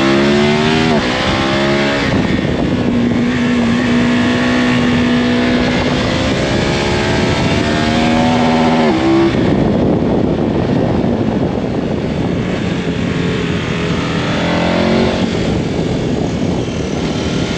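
KTM Super Adventure's V-twin engine accelerating hard through the gears: the revs climb, drop sharply at each upshift about a second in and again about nine seconds in, hold steady between, and climb again near the end.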